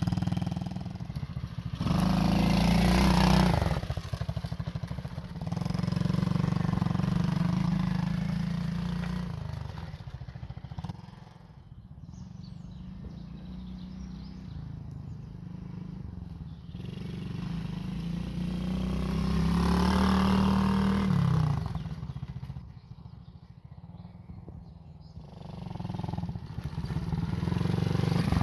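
Apollo Hurricane 125cc quad's small engine running, surging louder a couple of times (a few seconds in and about two-thirds through) with pitch that rises then falls, and dropping back to a quieter run in between.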